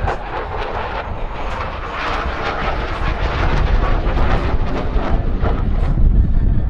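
Jet engine noise from an F-16 fighter: a loud, broad rumble with a crackling edge that grows louder toward the end.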